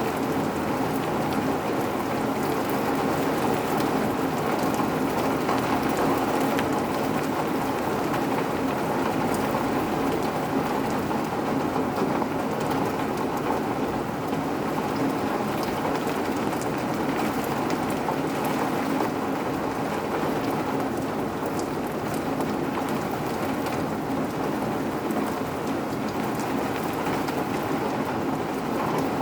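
Steady rain: an even, unbroken hiss of falling water, with faint scattered drop ticks.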